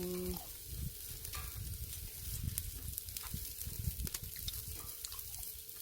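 Pork neck sizzling on a charcoal brazier, with a steady run of fine crackles from fat dripping onto the coals and an irregular low rumble underneath.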